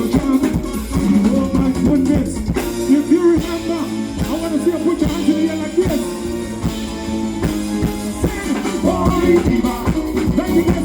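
Live band music with a steady drum beat, bass and guitar, and a melodic lead line over it.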